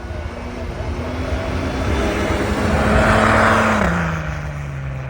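A 4x4's engine running under load with a rush of tyre and snow noise. It grows louder to a peak about three seconds in, then its pitch drops and it eases off.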